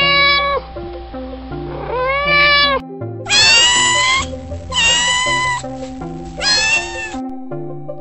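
Cats meowing: five drawn-out meows, the last three louder and shriller, over background music.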